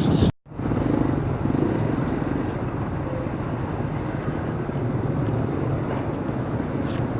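Honda XR250 dirt bike's single-cylinder engine running at a steady cruise, with road and wind noise. The sound cuts out briefly about half a second in, then resumes.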